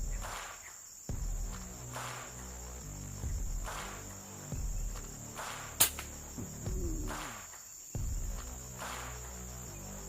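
Insects chirring steadily at a high pitch over soft background music, with a single sharp crack about six seconds in.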